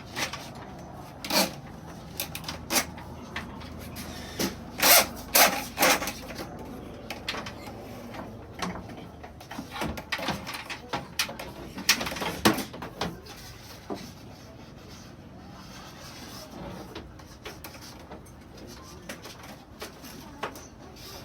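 Irregular sharp clicks and knocks of hand work on the parts of an air conditioner being replaced. They come thick and fast for the first dozen seconds or so, then thin out to an occasional tap.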